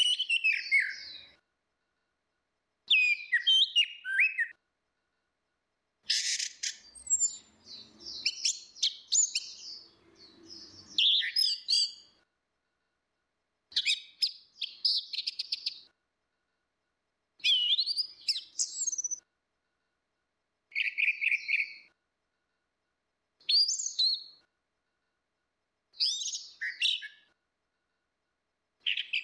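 Orange-headed thrush singing: short bursts of quick, varied whistled and chirping notes that slide up and down, about nine phrases each lasting one to two seconds with silent gaps between them, and a longer run of song around the middle.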